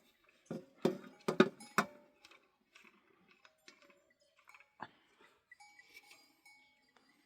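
Small livestock bleating in a short burst about a second in, then livestock bells clinking and ringing lightly.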